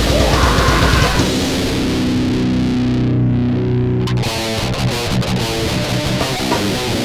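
Loud distorted heavy-metal guitar music in a grind/noise style: a dense wall of noise gives way about a second in to a held distorted electric guitar chord, which breaks into fast, choppy riffing about four seconds in.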